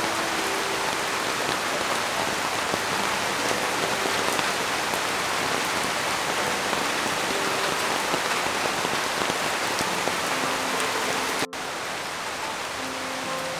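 Steady heavy rain, an even hiss, dipping briefly and coming back a little quieter near the end.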